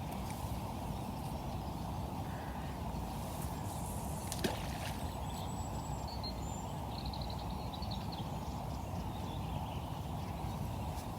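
Steady low outdoor rushing noise, with a few faint high bird chirps and whistles around the middle and a single sharp click about four and a half seconds in.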